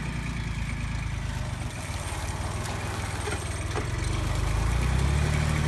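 Yanmar YM169D compact tractor's diesel engine running steadily, getting louder about two-thirds of the way in.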